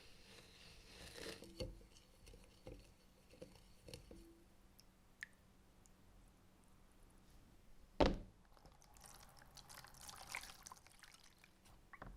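Objects handled on a workbench: a few light knocks, one sharp loud thunk about eight seconds in, then a couple of seconds of rustling.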